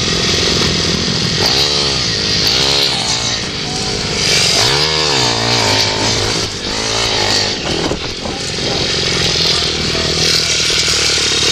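Pit bike racing engines revving hard and passing, their pitch rising and falling repeatedly as the riders work the throttle and shift. The busiest stretches are about a second and a half in and again from about four and a half to seven and a half seconds.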